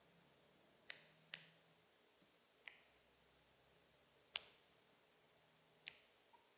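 Northern cardinal giving sharp chip calls, five single notes at irregular intervals of about half a second to a second and a half.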